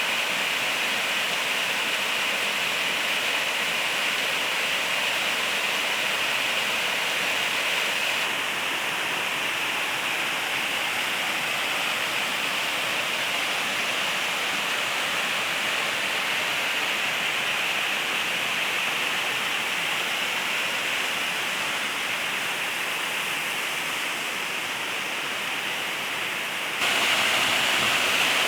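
Waterfall rushing steadily, a constant dense hiss of falling water. Near the end the sound jumps louder, with more low rumble and wind buffeting the microphone.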